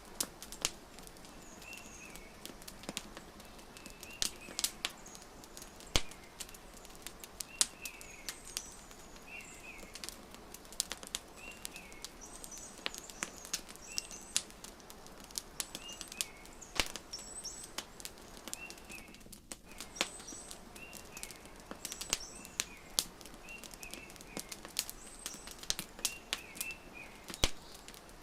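Wood fire crackling with sharp, irregular pops, layered with small birds chirping short repeated calls every second or two over a soft, steady background.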